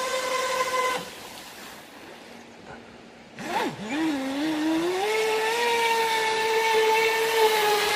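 Feilun FT011 RC speedboat's brushless electric motor whining at a steady high pitch, cut off about a second in. After a short lull the pitch swoops briefly, then the whine climbs back up and holds steady as the throttle is reapplied.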